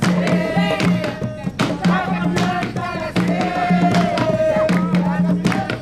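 Jongo music: hand drums beating a steady rhythm under voices singing.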